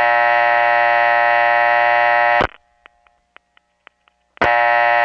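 Supervision test tone on a number one step telephone office line: a loud buzzy tone with many overtones that cuts off about halfway through. A few faint clicks sound on the quiet line, and then the tone comes back near the end.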